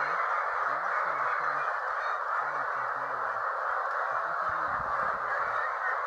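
A large flock of chickens giving a steady, dense din of clucking and squawking. Low voices murmur faintly underneath.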